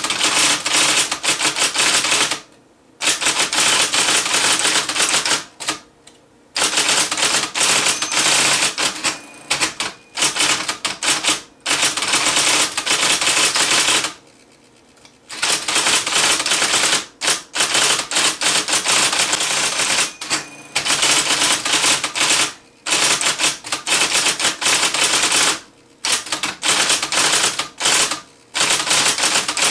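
IBM Selectric III electric typewriter being typed on in fast runs of keystrokes, its typeball striking in rapid clatter. The runs are broken by several pauses of up to about a second and a half, in which the machine's quieter motor hum goes on.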